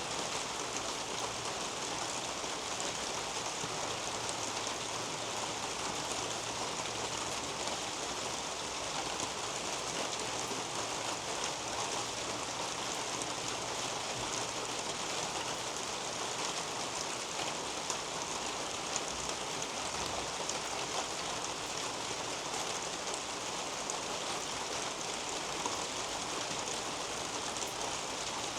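Steady rain falling on a leafy garden canopy: a dense, even hiss of many small drops that holds without letup.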